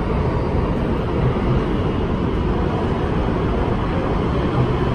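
Steady running noise of an MTR West Rail Line train travelling at speed through a tunnel, heard from inside the passenger car: a low, even rumble with no breaks.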